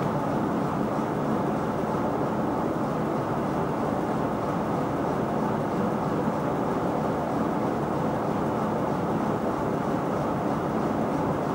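Farm machinery engine running steadily, an even drone with no changes in speed.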